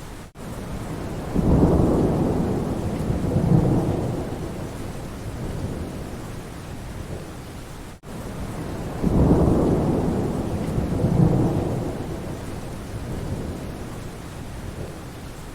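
Steady rain with two long low rolls of thunder, one swelling up about a second in and another about nine seconds in. The sound cuts out for a split second twice.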